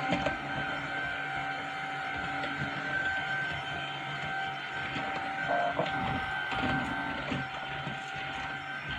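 Tineco A10 cordless stick vacuum running: a steady motor whine with a high tone and a fainter one below it, and scattered low thuds as it is moved about.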